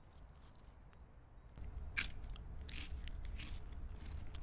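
A person chewing and crunching food close by, with the sharpest crunch about two seconds in and a run of further crunches after it.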